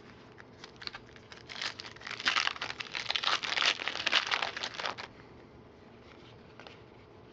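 A football card pack's foil wrapper crinkling as it is torn open and pulled apart. A few scattered crackles turn into a dense run of crinkling that stops suddenly about five seconds in.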